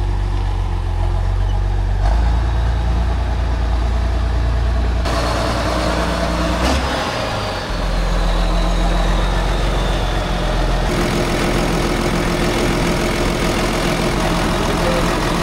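Tractor engine running steadily, its sound changing abruptly several times, at about 2, 5, 8 and 11 seconds in, as if spliced from separate takes.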